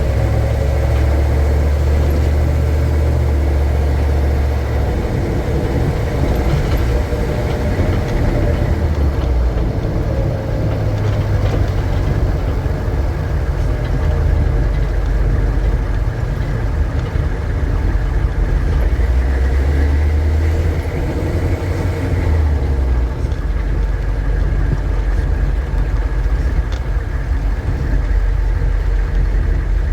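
Car running, heard from inside the cabin: a steady low rumble of engine and road noise that swells and eases now and then.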